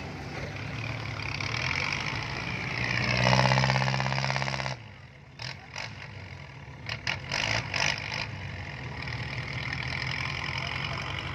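Kubota L5018 tractor diesel engine running, revving up to its loudest about three to five seconds in and then dropping off suddenly. A few short sharp clacks follow over the next few seconds, and then the engine settles back to a steady run.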